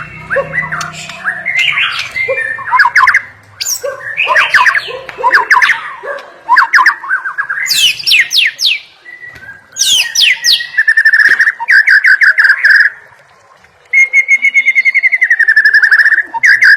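White-rumped shama singing a varied song of quick whistled phrases with steep rising and falling sweeps. After about ten seconds it switches to long runs of rapid repeated trill notes, broken once by a short pause.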